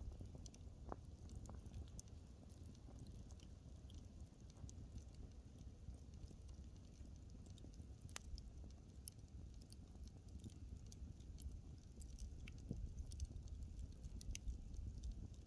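Wood fire burning, with sparse, irregular crackles and small pops of the burning logs over a low steady rumble.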